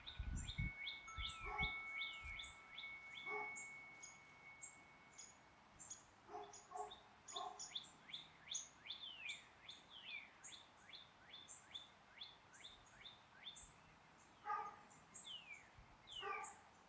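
Several songbirds chirping in short, rapid falling notes, with a few lower calls now and then. A wind chime's ringing tones linger and fade out about six seconds in.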